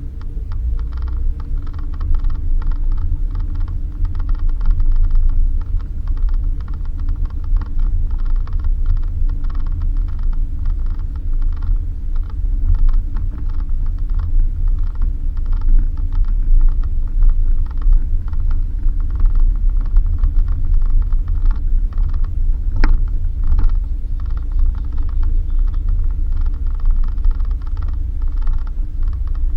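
Inside a Suzuki Jimny on a rough dirt road: a steady low engine and road drone, with the body and fittings creaking and rattling continuously. A single sharp knock comes about three quarters of the way through.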